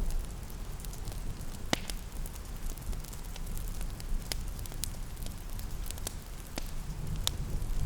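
Wood fire crackling in a fireplace, with scattered sharp pops over a steady low rumble and a soft hiss of rain.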